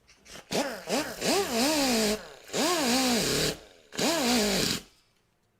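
Pneumatic wire brush (air tool) run in three short bursts, its whine rising and falling with each squeeze of the trigger over a hiss of air, scouring the grooves of a damaged hydraulic cylinder rod.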